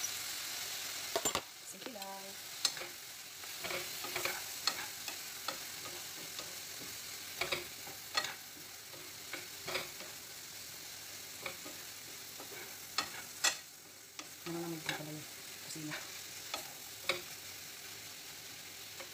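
Sliced bitter gourd sizzling in a non-stick frying pan over a gas flame while a utensil stirs it, with irregular clicks and taps of the utensil against the pan. The sizzle is a little louder for about the first second.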